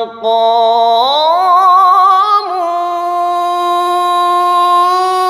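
Quran recitation by a single voice in melodic tajwid style, drawing out a long ornamented vowel. The pitch rises about a second in, then holds a long note with slight wavering.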